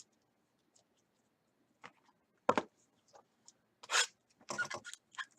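Trading card packaging being handled: a sharp knock about two and a half seconds in, then scratchy rustling and scraping of paper and plastic wrapping.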